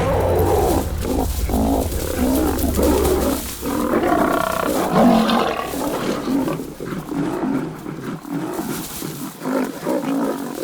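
Lionesses and young male lions fighting over a kill: a dense run of loud roars and growls from several lions at once, peaking about halfway through, as the lionesses drive the males off.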